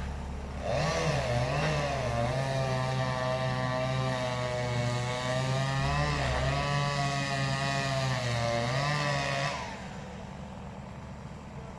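Chainsaw cutting into a birch trunk: the engine revs up about a second in, holds high revs under load with a slightly wavering pitch, then drops off sharply near the end.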